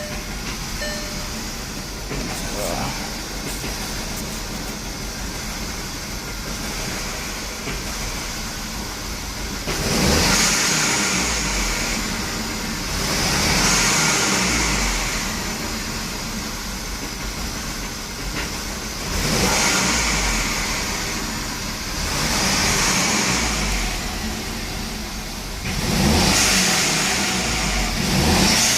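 VW CC's turbocharged four-cylinder engine with a K04 turbo, idling rough, then revved up about five times in the second half, each rev rising and falling back to idle. The rough idle is the fault being shown; the owner suspects a vacuum or exhaust leak and notes that it smooths out with gas.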